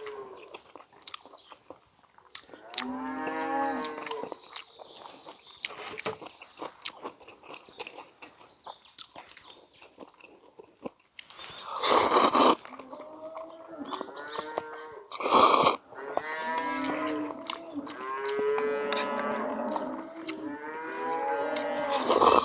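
Cattle mooing repeatedly, drawn-out calls that come more often and overlap in the second half, over soft chewing clicks. Two short loud rushing bursts stand out about halfway through.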